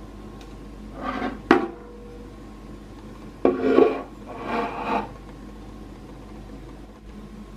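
Kitchen items being handled and set down: a short rub ending in a sharp clack about a second and a half in, then two longer scraping, rubbing sounds in the middle.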